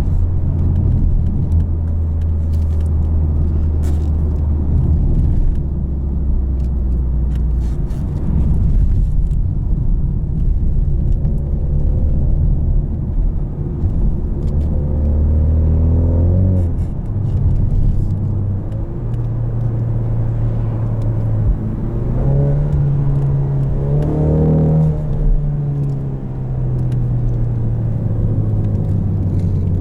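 2020 Ford Mustang EcoBoost's turbocharged four-cylinder engine heard through its active valved exhaust in track mode, its loudest setting, described as so loud. It drones steadily while driving, with the revs climbing twice, around the middle and again later, each climb ending in a drop.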